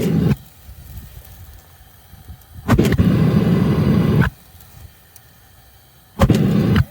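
Propane burner of a homemade furnace being lit, firing in three bursts of rushing flame noise: a short one, a longer one of about a second and a half in the middle, and another short one near the end. Each starts with a pop and cuts off suddenly: the burner is failing to stay lit.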